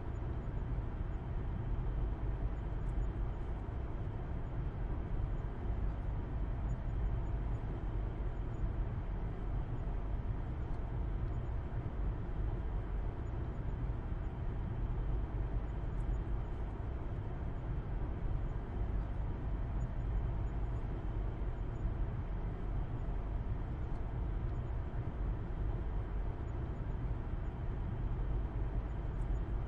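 Steady low rumble of a car driving at a constant speed, engine hum and road noise heard from inside the cabin.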